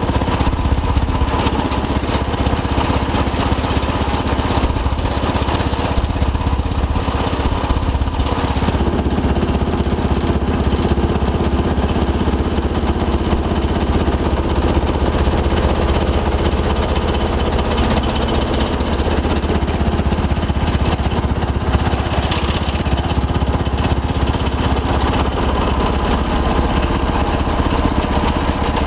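Allied 9700C hydraulic plate compactor running on an excavator: the machine's diesel engine runs steadily under the hydraulic load while the compactor plate vibrates with a fast, even pulsing. The low rumble shifts in tone about eight seconds in.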